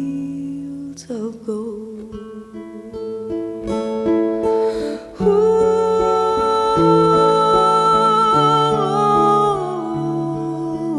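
Acoustic guitar playing the song's closing bars, with a long held wordless vocal note entering about five seconds in and sliding down near the end.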